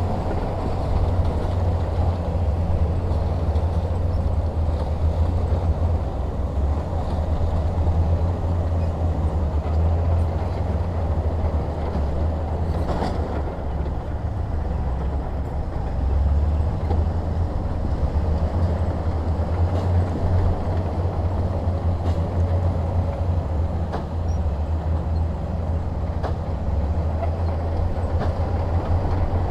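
Heavy diesel earthmoving machinery running steadily with a deep, constant engine rumble. A single sharp metallic knock comes about thirteen seconds in.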